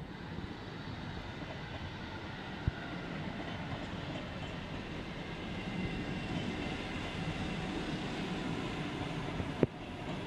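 Red electric multiple unit passing slowly, with a steady rumble of wheels on rails that grows a little louder as the cars go by. Two sharp clicks cut through it, a small one about three seconds in and a louder one near the end.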